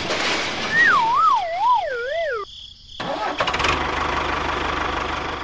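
A cartoon-style wobbling whistle slides down in pitch for about a second and a half and cuts off sharply. After a brief gap comes a steady engine-like running noise, with a quick rattle of clicks near its start.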